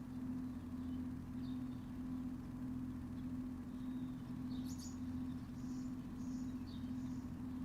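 A steady low mechanical hum with a constant tone runs throughout, while small birds give short high chirps now and then, a cluster of them about four to five seconds in.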